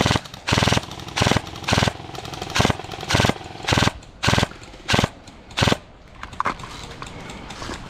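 Airsoft gun firing about ten short rapid-fire bursts, roughly two a second, each a quick rattle of shots. The bursts stop about six seconds in, leaving only faint scattered clicks.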